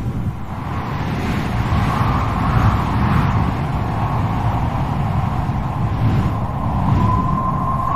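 Strong wind blowing in gusts, with a deep rumble and a hollow whooshing that swells and eases. Near the end a thin, wavering whistle starts up in the wind.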